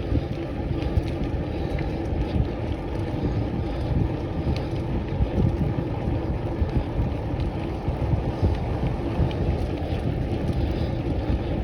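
Steady rumble of wind buffeting the microphone and bike tyres rolling on wet tarmac during a ride.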